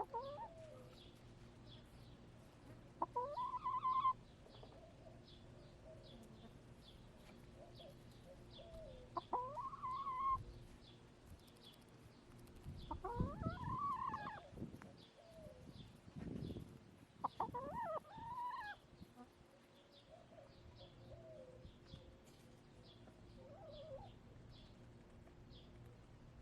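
Backyard hens clucking and calling, a handful of drawn-out rising calls spaced several seconds apart. A faint, high chirping repeats rapidly in the background.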